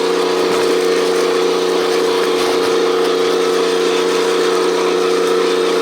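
The electric motors of a 1/14-scale radio-controlled articulated dump truck running at a constant speed, giving a steady, loud whine that does not change in pitch.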